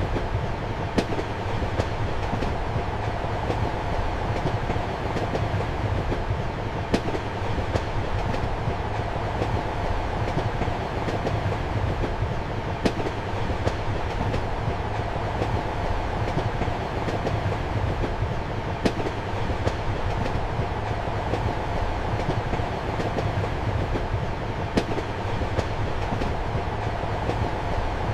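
Passenger train running, heard from inside a compartment: a steady rumble and hum with the clack of wheels over rail joints, a sharp click about every six seconds.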